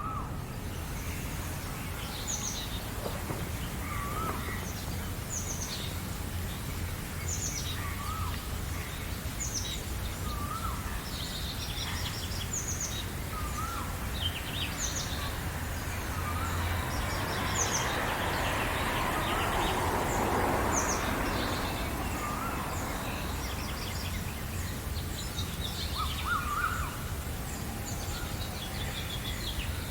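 Several wild birds calling in a morning chorus: one bird repeats a short note that hooks upward, every two to four seconds, while others chirp quickly at a higher pitch. About midway a soft rushing noise swells and fades, over a steady low rumble.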